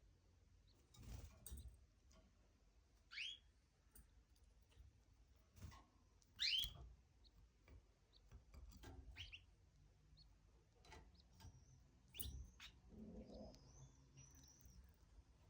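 Pet canary giving short rising chirps, about four in all, the loudest about six and a half seconds in, with a few brief high notes near the end. Faint clicks and taps between the calls.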